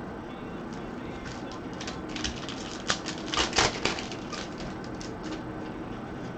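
Trading cards being handled: a scatter of light clicks and snaps from the cards, thickest about halfway through.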